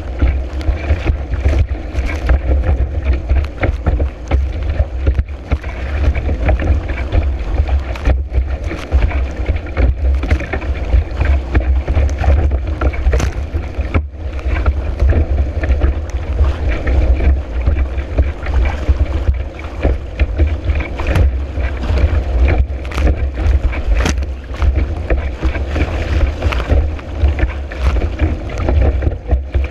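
Strong wind buffeting a board-mounted action-camera microphone in a deep, constant rumble, while the board skims and slaps through choppy water with frequent short splashes and knocks.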